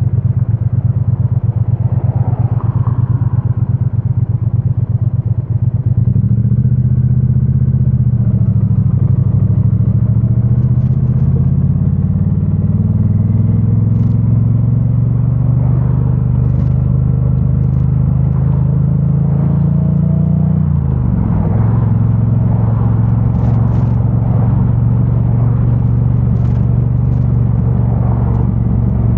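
2022 Triumph Bonneville T100's 900 cc parallel-twin engine on its stock exhaust, muffled through a backpack: running steadily at low revs for about six seconds, then pulling away with the engine note slowly climbing. The pitch dips briefly about twenty-one seconds in, then the engine runs on steadily.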